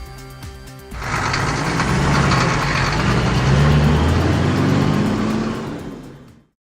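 A vehicle engine starts about a second in and revs up, its pitch rising in steps. It fades out near the end.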